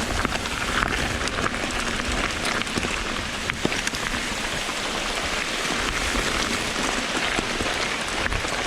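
Steady rain falling, an even hiss with scattered sharp raindrop ticks.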